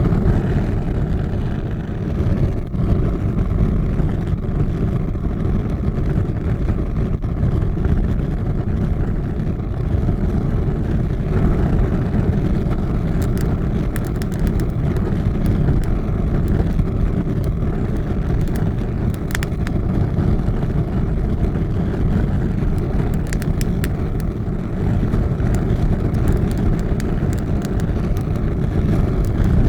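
Large fire burning with a steady low roar and scattered sharp crackles.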